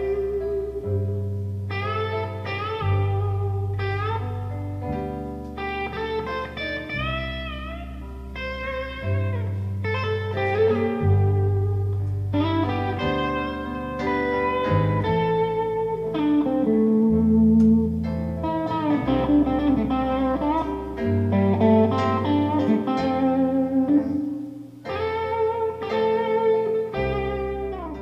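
A live band plays an instrumental blues passage with no vocals: a guitar lead with bent notes over a steady bass line.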